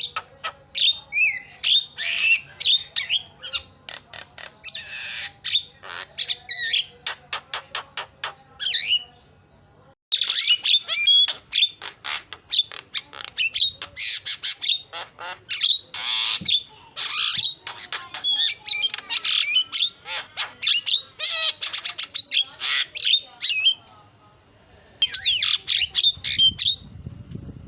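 Javan myna chattering nonstop: a dense, rapid string of squawks, whistles and sharp chirps, pausing briefly about ten seconds in and again a few seconds before the end.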